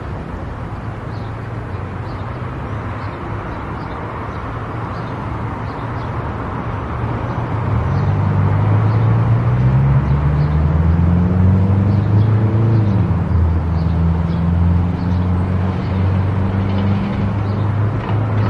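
Car driving on an expressway: steady tyre and road noise, joined about halfway through by a louder low engine hum that climbs slightly in pitch and then holds.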